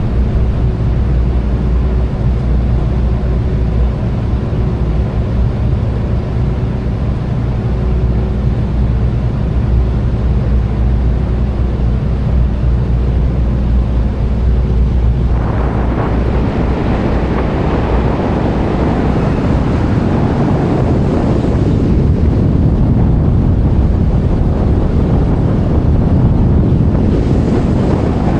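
Boat engine droning steadily with a low hum. About halfway through, a loud rush of wind and water noise comes in over it and stays.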